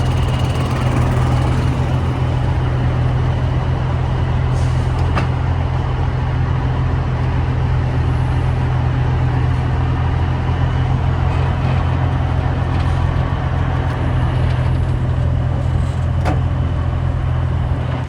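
Heavy truck engine running with a steady low drone and road or wind noise. It cuts off suddenly at the end.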